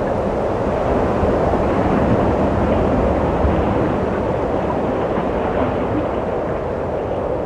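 Steady wind blowing, a dense whooshing rush with a low rumble beneath that swells slightly and eases off.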